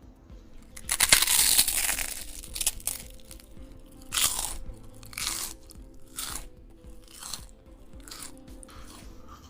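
Crunching noises: a long one about a second in, then shorter ones roughly once a second, over faint background music.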